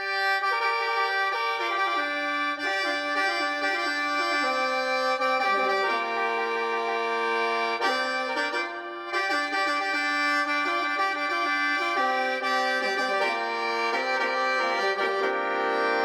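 Lao khaen, the bamboo free-reed mouth organ, playing a lively melody over held drone notes, with a brief drop in level about nine seconds in.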